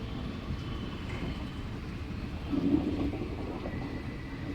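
Express train rolling slowly into the station, a steady rumble of wheels on rails. A brief louder tone rises above the rumble about two and a half seconds in.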